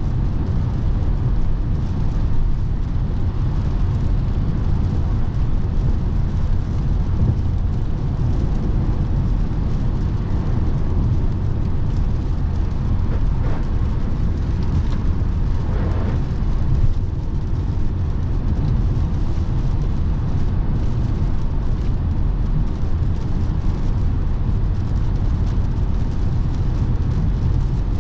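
Steady low rumble of tyre and wind noise from a 2017 Lexus NX 300h hybrid driving at autobahn speed, with a brief faint swell of noise near the middle.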